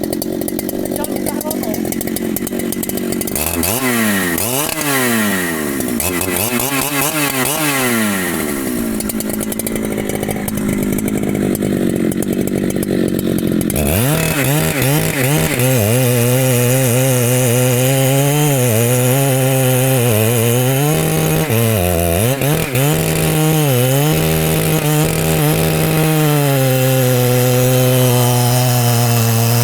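Two-stroke Husqvarna chainsaw running. It is revved up and down for the first half, then from about halfway it runs lower and uneven, its pitch dipping again and again as the chain is loaded in the wood.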